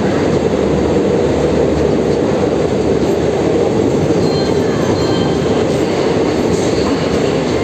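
Visakhapatnam Garib Rath Express coaches rolling past on the rails as the train pulls into the station, a loud, steady rumble with no clear wheel beat, mixed with heavy rain.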